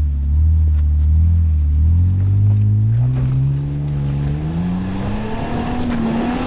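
Off-road vehicle's engine pulling through a river crossing. It holds a steady note, then revs climb steadily from about two seconds in as it pushes through deeper water, with the rush of water louder near the end.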